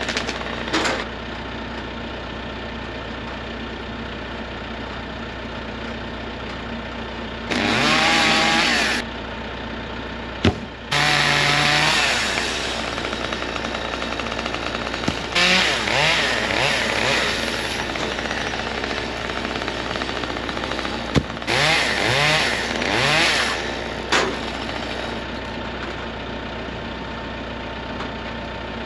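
Chainsaw revving and cutting in about four short bursts of one to two seconds each, over a steady idling engine between them; a couple of sharp knocks in between.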